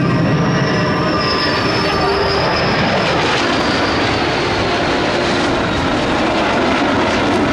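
Jet aircraft flying past, a loud steady engine noise with a high whine that falls in pitch over the first few seconds.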